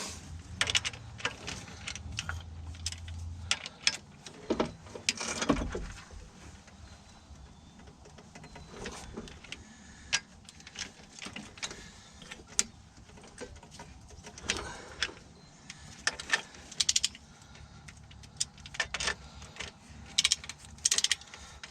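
Intermittent metallic clinks and clicks of hand tools and engine parts being handled during engine work, with a low hum in the first few seconds.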